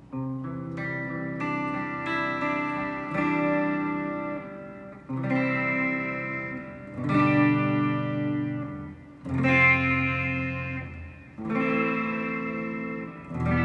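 Electric guitar played through a Mooer GE100 Pro multi-effects processor. Chords are strummed and left to ring, a new one roughly every two seconds, as a demonstration of one of its presets.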